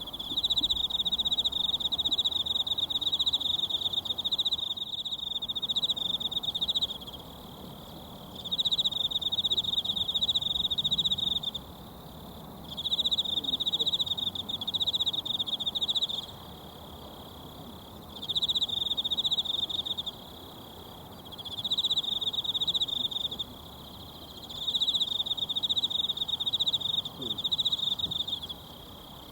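An insect trilling high and steadily in bouts of a few seconds, with short pauses about every 1 to 2 seconds. Under it runs the steady low murmur of a mountain stream.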